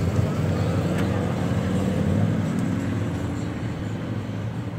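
Ford Mustang Bullitt's 4.6-litre V8 running as the car pulls away, rising a little in pitch over the first couple of seconds, then fading as it gets farther off.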